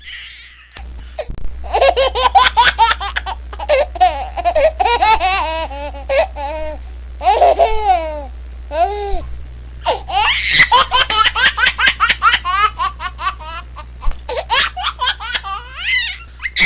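A baby laughing in runs of quick, high-pitched pulses, starting about a second in and breaking off briefly a few times between bursts.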